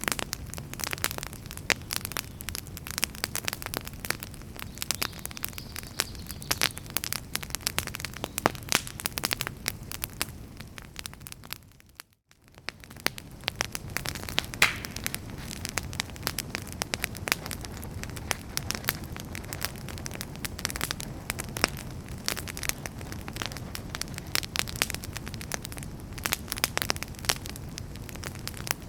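Wood fire crackling in a fireplace: dense, irregular pops and snaps over a low steady rumble. About twelve seconds in, the sound fades briefly to near silence and then comes back.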